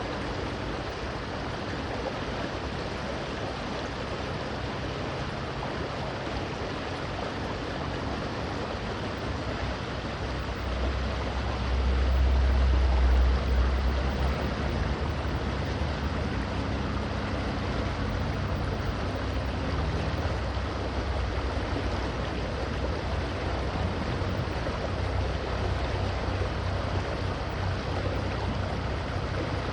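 River water flowing steadily, with a low rumble underneath that swells about halfway through and then eases.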